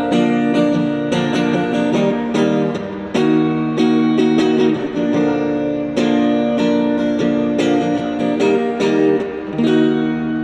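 Guitar playing an instrumental passage of strummed and plucked chords, with no singing.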